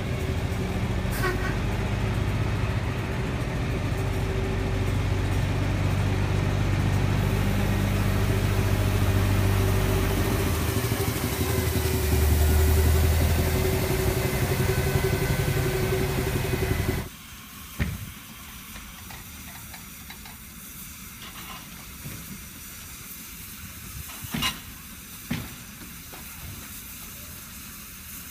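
Narrow-gauge railway locomotive running close by with a steady hiss and low engine-like hum. It cuts off abruptly about two-thirds of the way through, leaving a quieter background with a few sharp clicks.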